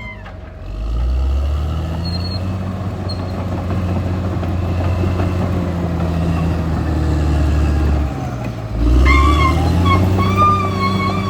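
Caterpillar D6R XL bulldozer's diesel engine running loudly, dropping off briefly near the start and again about eight seconds in, each time picking back up in pitch. A wavering high-pitched tone joins about nine seconds in.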